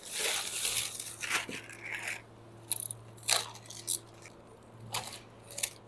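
Crinkling, crunching and scraping from a frozen block of Argentine squid and its plastic wrapping being handled, in irregular bursts with a few sharp clicks. A steady low hum runs underneath.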